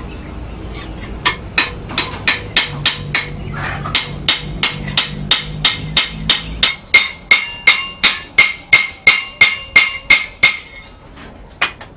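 Hammer head striking a rivet to peen it over, fastening a rebar handle to a small steel trowel blade: a long run of quick, even blows, about three a second. From about halfway through, each blow rings with a metallic note, and one last blow falls near the end.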